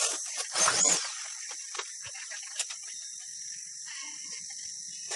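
Steady high-pitched insect drone, with two short louder noises in the first second and scattered faint clicks after.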